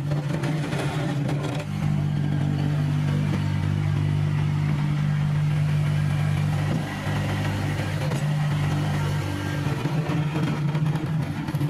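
Kubota tractor's diesel engine running steadily under work, its note shifting a few times as the load or revs change.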